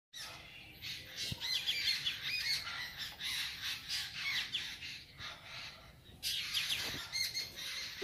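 A flock of small birds chirping and twittering together, many short quick chirps overlapping. It eases off briefly about five seconds in, then picks up again.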